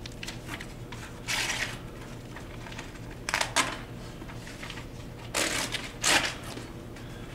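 A sheet of paper being handled, crinkling in four short rustling bursts.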